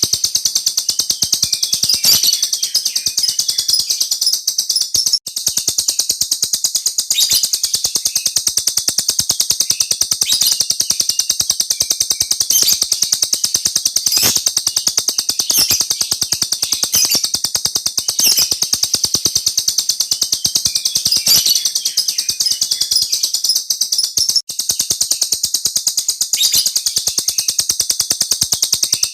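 A small bird singing a long, unbroken rolling trill of very rapid chirps, dropping out for an instant twice.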